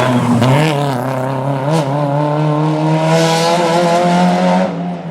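Rally car engine running hard at high revs, its pitch dipping and rising with throttle and gear changes, with one sharp crack about two seconds in and a rushing hiss before the sound drops away near the end.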